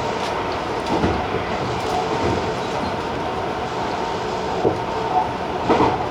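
Tobu 50090-series TJ Liner electric train running at speed: a steady rumble of wheels on rail, with a few wheel clacks over rail joints and a faint steady hum.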